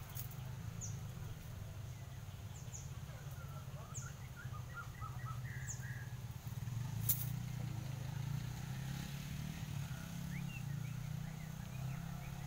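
Small birds chirping in short, high, falling calls and quick twittering runs over a steady low hum, with one sharp click about seven seconds in.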